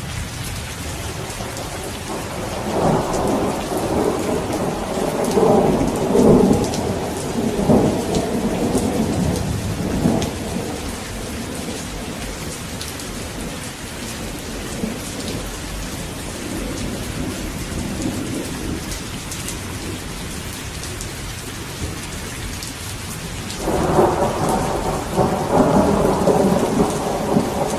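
Steady heavy rain with rolling thunder: one long rumble a few seconds in that dies away by about ten seconds, and another that breaks in sharply near the end.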